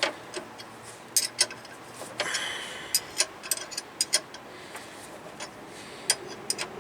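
Irregular small metal clicks and taps as a brake-line double-flare tool and its die are handled and adjusted, with a short scraping rustle about two seconds in.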